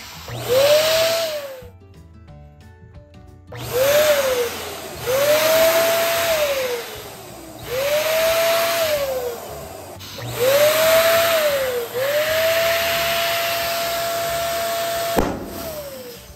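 Electric balloon pump running in short bursts, its motor whine rising as it spins up and falling as it winds down, over a rush of air. About seven bursts, the second-to-last held for a few seconds, with a sharp snap near the end.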